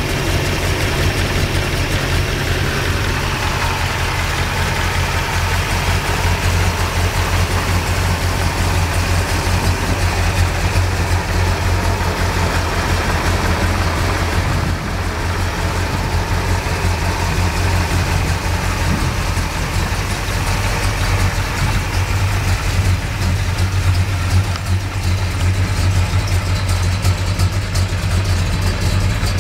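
1969 Dodge Charger R/T's 440 Magnum big-block V8 idling steadily, with an even low exhaust note.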